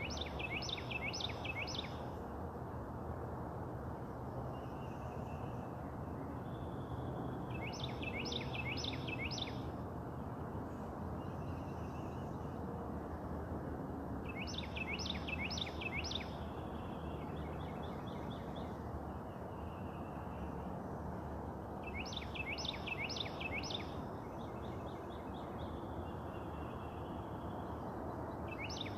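A songbird repeating a short phrase of four or five quick down-slurred whistled notes, about every seven seconds, with a fainter bird singing in between, over a steady low background hum of outdoor ambience.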